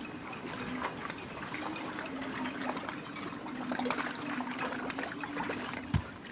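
Water trickling and splashing with many small clicks over a faint steady hum, and a single dull thump near the end.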